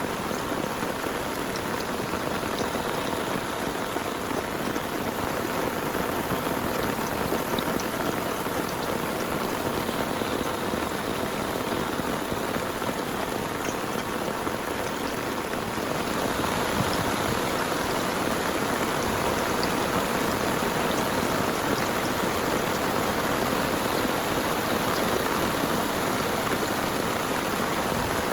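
Heavy rain falling steadily in a dense, even hiss with scattered drop taps. It grows a little louder about halfway through.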